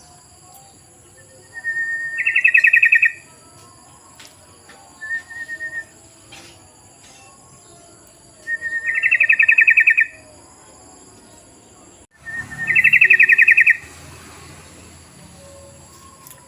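Yellow-vented bulbul (trucukan) calling: three times a short note runs into a loud, rapid chattering trill about a second long, with a couple of brief softer notes between. A steady high thin whine sits underneath throughout.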